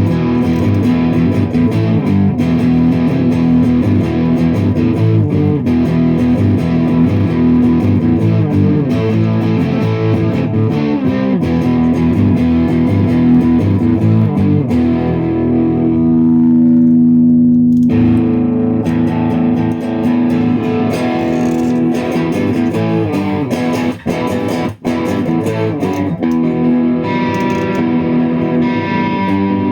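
Stratocaster electric guitar with a Tonerider Birmingham pickup, played through a Green Spirit effects pedal into a Mesa Boogie Rectifier amp on its clean channel. The playing is a continuous run of phrases, with a chord held for about two seconds past the middle and two short breaks a few seconds later.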